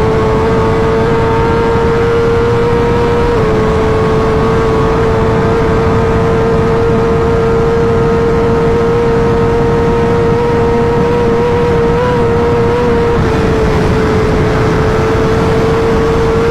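2020 BMW S1000RR's inline-four engine running at a steady high-pitched note at speed, with slight dips in pitch around 3 seconds and 13 seconds in. Under it is a constant rush of wind noise.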